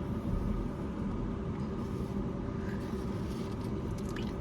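A steady low mechanical hum holding constant tones, with a few faint clicks near the end.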